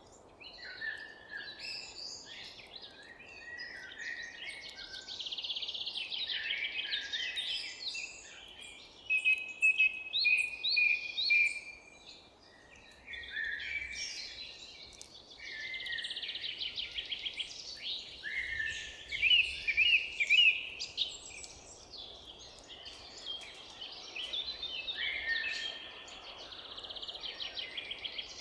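Several songbirds singing and chirping at once, overlapping calls and quick trills with louder bursts about a third and two thirds of the way through, over a faint steady low background noise.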